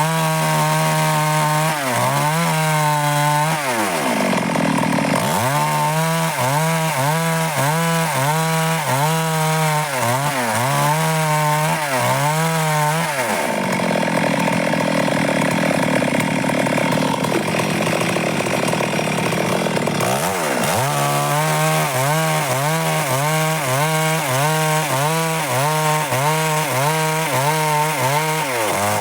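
Stihl MS 382 two-stroke chainsaw cutting dry wood under load, its engine pitch wavering up and down about once or twice a second as the chain bites. Twice the engine note dips and comes back up, and for a few seconds in the middle the sound turns rougher and noisier.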